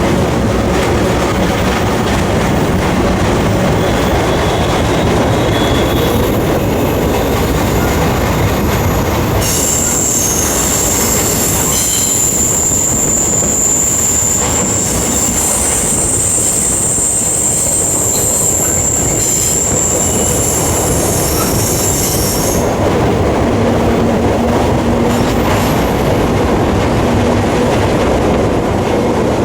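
Freight train rolling, heard from aboard one of its cars: a steady rumble and rattle of wheels on rail. A high, steady wheel squeal comes in about ten seconds in and cuts off about thirteen seconds later.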